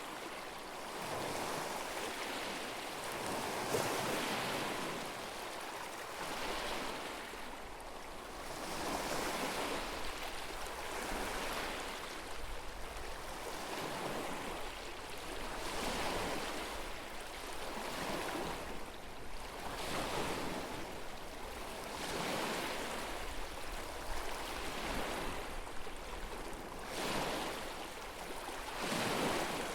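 Small lake waves washing onto the shore, a soft swell of water about every two seconds.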